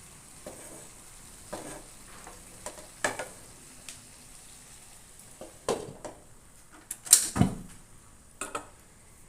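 Chicken curry sizzling faintly in a pan, with scattered knocks and clatter of cookware; the loudest clatter comes about seven seconds in.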